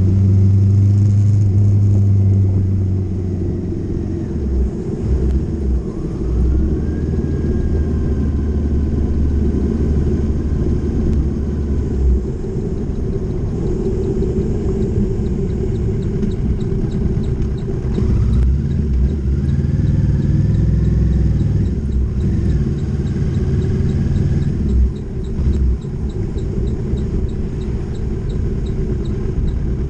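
Motorcycle engine running on the move, with a steady low rumble of wind and road noise. The engine note is strongest in the first few seconds.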